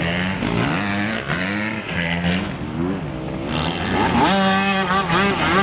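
Motocross bikes racing, their engines revving up and falling back again and again as they ride the track, with several engines overlapping. About two-thirds of the way through one bike grows louder, its engine climbing in pitch.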